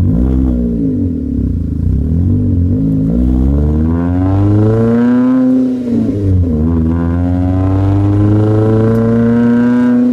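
Subaru Pleo RS 660 cc four-cylinder engine revving through a 5ZIGEN aftermarket muffler with no catalytic converter in the mid pipe. A few short blips come first, then a rise to a high rev that drops off sharply just before the middle. After that it climbs slowly again and is held high near the end.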